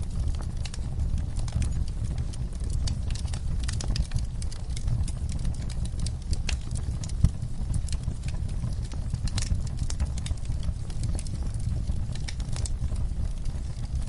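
Campfire burning: irregular crackles and pops of burning wood over a steady low rumble of flames.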